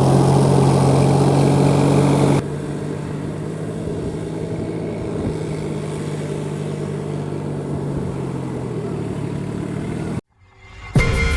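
New Holland 4710 tractor's diesel engine running steadily. About two seconds in the sound cuts to a quieter take of the engine, which stops abruptly near the end.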